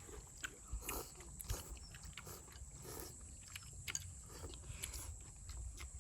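People eating: chewing and slurping budae-jjigae stew and ramen noodles, with scattered light clicks of spoons and chopsticks.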